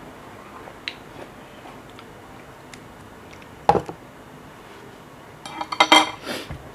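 Utensils and tableware clinking and knocking while eating: faint scattered ticks, one sharp knock about four seconds in, then a quick run of clinks near the end.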